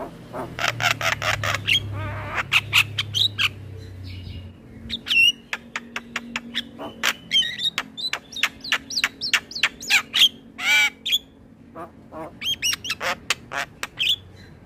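Male Javan myna singing a rapid, varied song of short harsh squawks, sharp clicking notes and whistles, with brief gaps between phrases.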